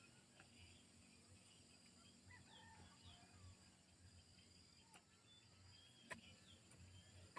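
Near silence: faint outdoor ambience with scattered short bird chirps and one sharp click about six seconds in.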